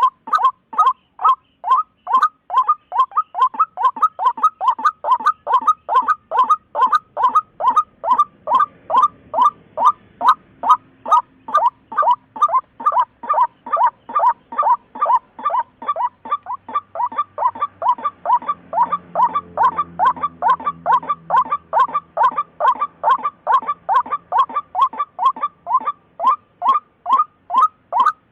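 Waterhen calling: a steady, unbroken series of short, identical notes, repeated about two to three times a second.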